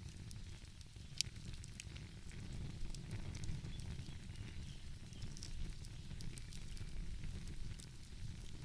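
Wood fire crackling, with scattered sharp pops, the sharpest about a second in, over a steady low rumble.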